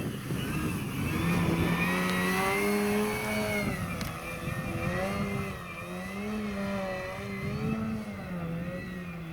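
Electric radio-controlled airplane's motor and propeller whining in flight, its pitch rising and falling over and over, loudest a couple of seconds in.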